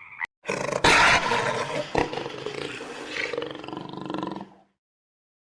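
A large wild animal's roar, one long call that is loudest at the start and tails off over about four seconds.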